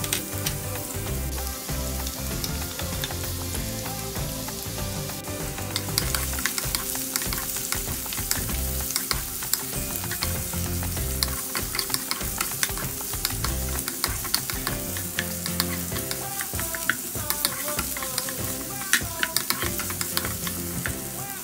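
Sliced ginger and onion sizzling in hot oil in a nonstick wok, stirred with a wooden spatula that clicks and scrapes against the pan, the clicks coming thicker after the first few seconds.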